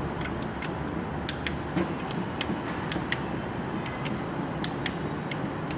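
Ratchet of a torque wrench clicking in short, uneven runs as the 10 N·m bolts are checked, over a steady background noise.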